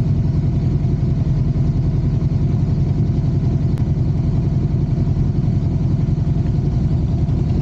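Motorcycle engine idling steadily with a low, even pulse.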